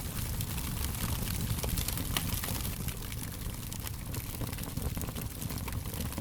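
Wood fire crackling steadily, with frequent small sharp pops and snaps over a low rumble of the flames.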